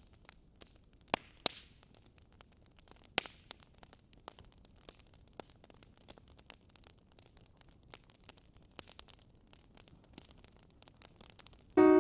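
Wood campfire crackling: faint, irregular sharp pops and snaps, a few louder ones in the first few seconds. Piano music comes in right at the end.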